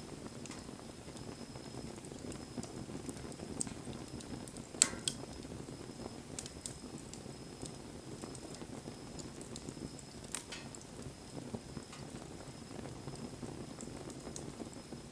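Wood campfire burning: a steady low rush of flames with scattered crackles, and two sharper pops, the louder about five seconds in and another about ten seconds in.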